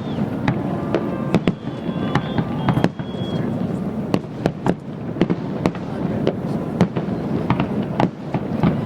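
Fireworks display: many shells bursting in quick, irregular succession, sharp bangs mixed with crackling. A couple of whistling shells sound in the first few seconds.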